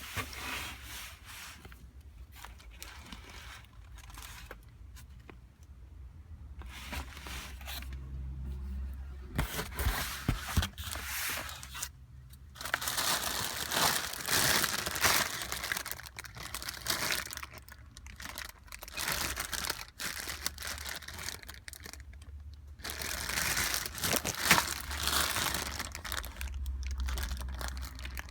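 Packaging crinkling and rustling in irregular bursts as an engine gasket kit is unwrapped and handled, with a few tearing sounds.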